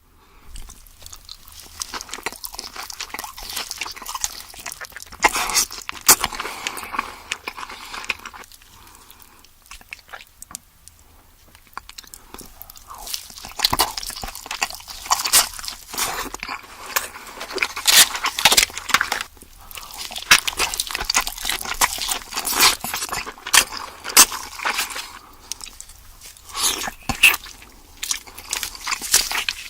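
Close-miked eating of king crab: shells cracking and snapping, with crunching and wet chewing. The cracks come in irregular clusters, with a quieter lull about ten seconds in.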